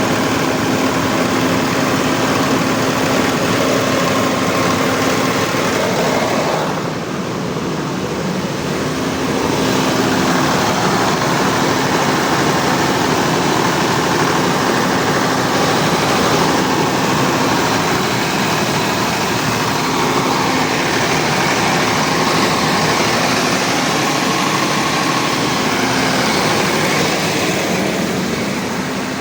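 Eicher 40 kVA diesel generator set running steadily, a dense mechanical drone with a constant hum. The sound dips and dulls briefly about a quarter of the way through, then returns to full level.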